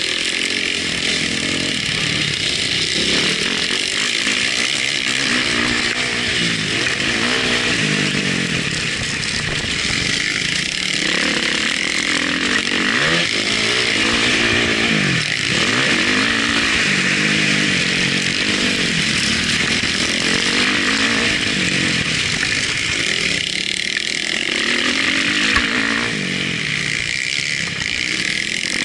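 Motocross bike engine heard from an onboard camera, revving up and falling back over and over as the rider works the throttle and shifts through the gears.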